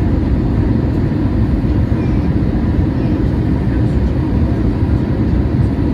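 Steady low roar of a Boeing 737-800's cabin noise, engines and rushing air heard from inside the cabin, with a faint steady hum on top.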